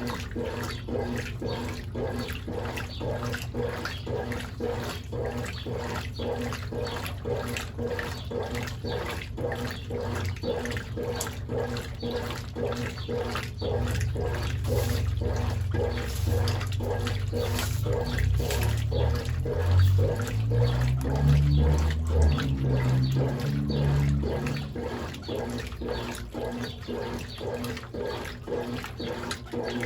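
Brastemp Ative 11 kg top-loading washing machine agitating a load of bedding and towels in water: rhythmic sloshing with each stroke of the agitator over the motor's steady hum. The load is now being turned over properly on the 'dia a dia' cycle, where before the agitation wasn't moving it.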